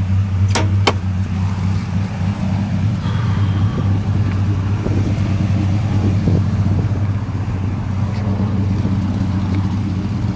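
Dodge Ram SRT-10's 8.3-litre Viper V10 idling steadily with a deep, even hum. Two sharp clicks sound about half a second in.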